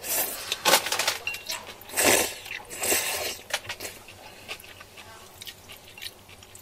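Eating sounds close to the microphone: several loud, noisy mouthfuls in the first three and a half seconds, then quieter chewing with small clicks.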